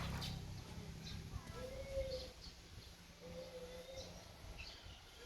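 Birds calling: short, low, level notes repeated about every second and a half, with faint high chirps in between. A low hum fades out in the first half second.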